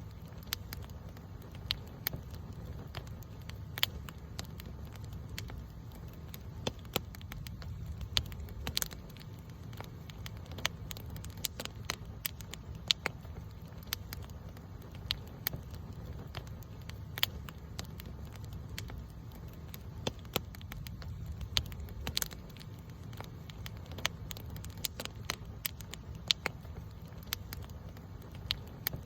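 Wood campfire burning: sharp, irregular crackles and pops over a steady low rumble.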